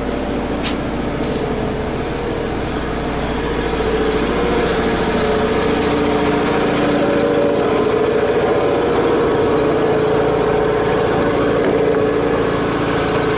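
An engine running steadily, a continuous hum with some hiss, a little louder after about four seconds.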